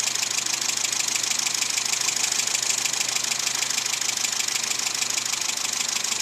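Car engine with a 123ignition electronic distributor idling, heard from inside the cabin, with a fast, even ticking. The idle is running slightly faster because extra ignition advance has been dialled in.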